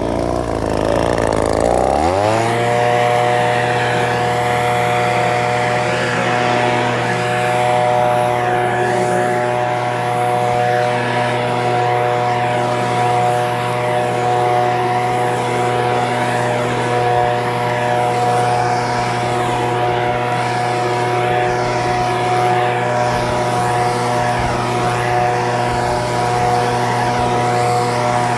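Echo PB-2620 handheld leaf blower's two-stroke engine revving up from a lower, wavering speed about two seconds in, then running steadily at high speed.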